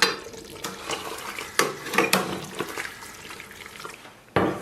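Kitchen tap running into a sink, with several sharp knocks of kitchenware and a louder thump near the end.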